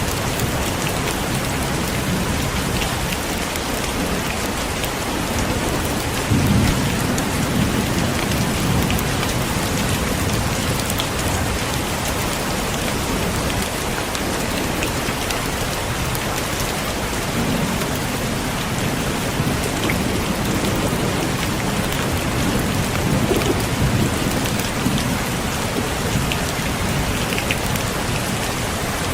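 Heavy steady rain pouring onto surfaces, with low rolls of thunder rumbling underneath, one about six seconds in and others later on.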